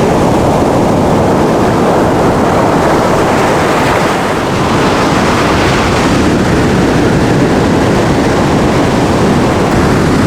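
Loud, steady rush of sea wind buffeting the microphone together with Caribbean surf breaking on the beach.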